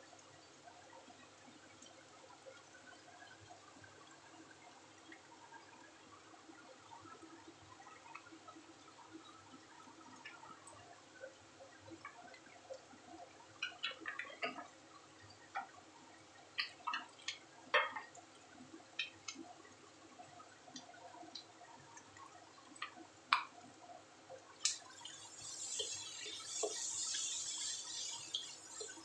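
Diced vegetables frying in oil in a wok, with scattered pops and crackles. About 25 seconds in, a louder, steady sizzle starts up as steam rises from the wok.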